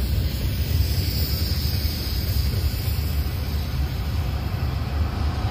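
Tank cars of a freight train rolling past on steel wheels: a steady low rumble.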